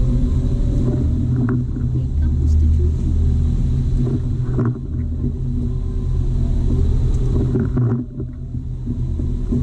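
Jeep Wrangler TJ engine running steadily with a low rumble, dipping briefly about eight seconds in.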